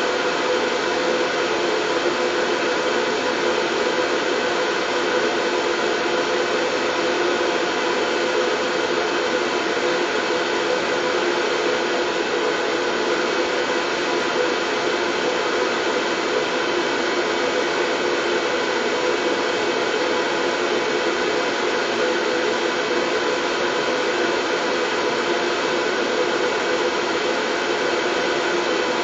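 Steady white noise: an even hiss that does not change, with a few faint steady hum tones running through it.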